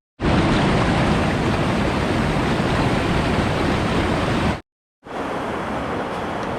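Steady rushing of a fast river tumbling through a rocky gorge, broken twice by brief total silences where clips are joined; after the second break the rush is a little quieter and duller.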